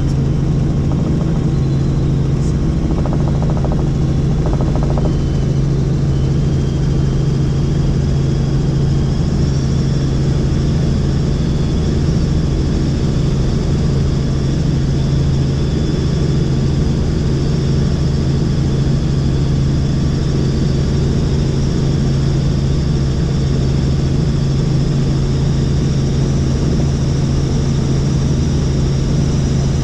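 Helicopter in steady flight: a constant low drone from the rotor and engine, with a thin high whine running above it.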